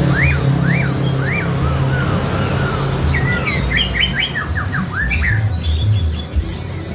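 Poksay Hongkong laughingthrush singing: clear whistled notes that rise and fall, about two a second, then a quicker run of short, sharp notes around the middle.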